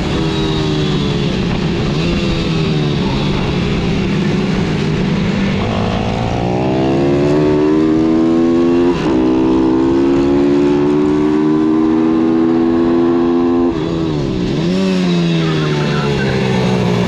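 Single-cylinder pit bike engine revving hard. Its pitch climbs steadily with a brief break about nine seconds in, falls sharply as the throttle is shut a few seconds later, then picks up again near the end.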